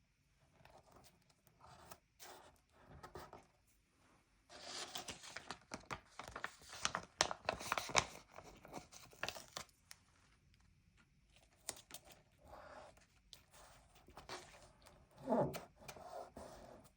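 Stickers being peeled off a paper sticker sheet: a crackly tearing sound. It is densest for several seconds in the middle, with lighter paper rustles around it and one sharper thud near the end.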